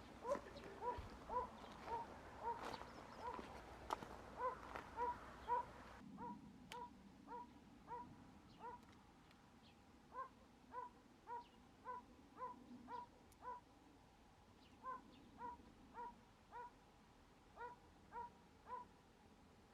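A dog whimpering in short, evenly repeated high-pitched calls, about two a second, faint throughout.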